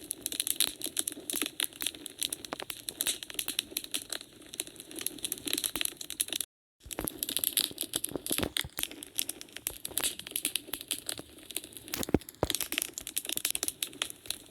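Wood fire crackling in a fireplace: a dense, irregular run of small snaps and pops over a low hiss, with a sharper pop about twelve seconds in. The sound drops out completely for a moment about six and a half seconds in.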